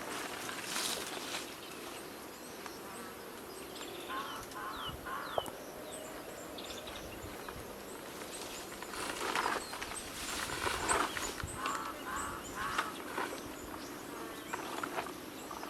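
Wild birds calling, with short honking calls and small high chirps, over forest background noise and intermittent rustling.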